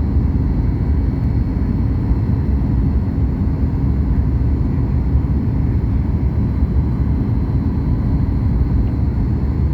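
Steady cabin noise of a Boeing 737 MAX 8 on approach with flaps at full: a low engine and airflow rumble with a faint steady whine above it.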